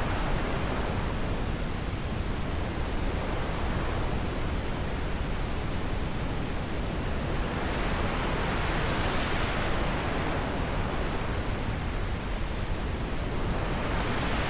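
Wind blowing steadily, swelling and easing in slow gusts, strongest about eight to ten seconds in.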